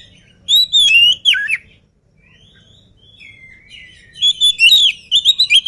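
Oriental magpie-robin (kacer) singing: two loud phrases of quick, gliding whistled notes with a quieter stretch of softer notes between them.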